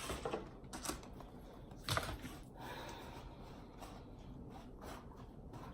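Quiet handling noises while burgers are dressed with condiments: soft rustling with a few light clicks, the sharpest about two seconds in.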